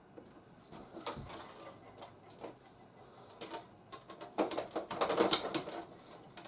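Hard plastic toy parts being handled: scattered clicks, then a quick run of rapid clicking and rattling a little past the middle.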